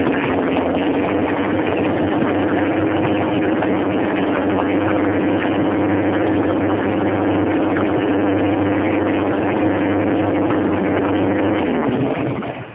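1999 Corvette's LS1 V8, fitted with an MS4 cam and open headers, idling steadily on its first start after the build. It is switched off near the end and the sound dies away.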